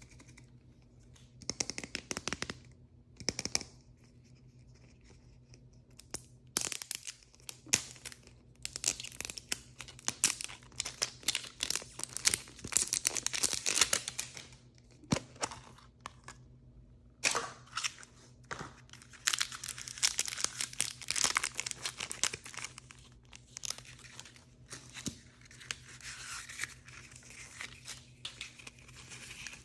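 Plastic blind-bag packaging being torn open and crinkled by hand, in irregular bursts of crackling and rustling with short pauses between.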